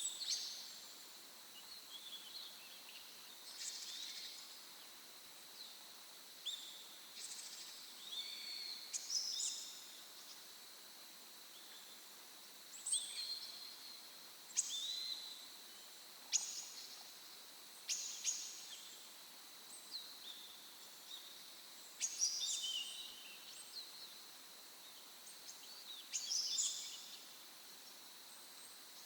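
Wild songbirds singing in forest at dawn: short, bright chirping song phrases every second or two. A faint steady high whine runs underneath.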